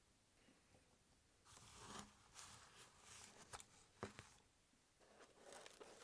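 Faint rustling and scraping, with a few sharp clicks, as small parts of a scale V12 engine model kit are handled and fitted together. The rustling starts about a second and a half in, with clicks around the middle and more rustling near the end.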